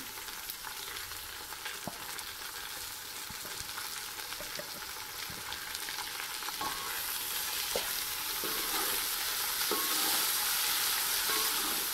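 Chopped tomatoes and ginger-garlic paste sizzling in hot ghee with browned onions in a steel pot as they are stirred. The sizzle grows louder about seven seconds in, with a few light clicks.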